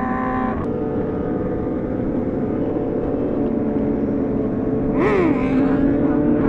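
Superbike engine running steadily at highway cruising speed, with wind noise. About five seconds in, an engine rev quickly rises and falls in pitch.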